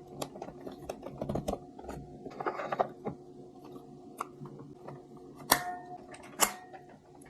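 Light clicks and clatter of small hard objects being handled, over a faint steady hum, with two sharper clacks near the end, the first briefly ringing.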